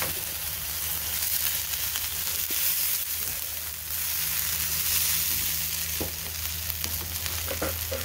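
Rehydrated shredded hash brown potatoes sizzling steadily in hot oil in a frying pan as more of them are poured in from the carton.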